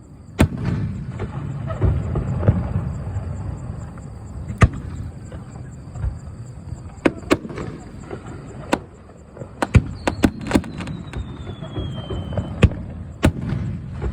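Aerial fireworks going off: sharp bangs at irregular intervals, with a quick run of cracks about ten seconds in, over a steady low rumble. A thin whistle slides down in pitch for a couple of seconds after the run of cracks.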